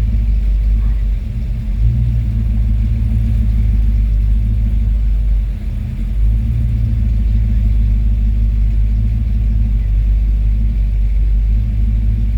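Steady low rumble of a car's engine and road noise, dipping briefly twice.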